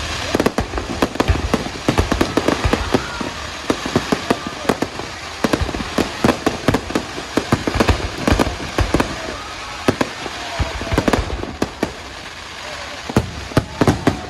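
Fireworks going off in rapid succession: many sharp bangs at irregular spacing over continuous crackling, easing for a moment about twelve seconds in before a few more bangs.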